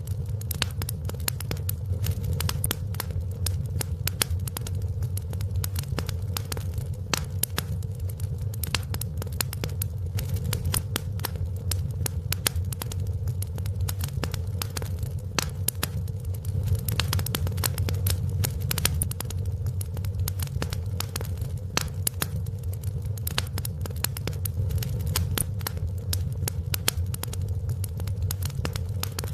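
Wood fire crackling in a fireplace: a constant stream of sharp pops and snaps over a steady low rumble of burning.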